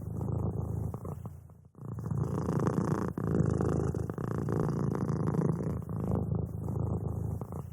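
Domestic cat purring steadily, close to the microphone, in long bouts with a brief break about two seconds in.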